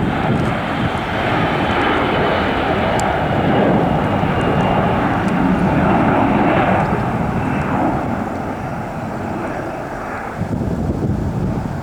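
Boeing 737-400's CFM56 turbofan engines at takeoff power as the jet passes. The engine noise is a dense rush with a faint high whine that slides slightly lower, loudest around the middle and easing off towards the end.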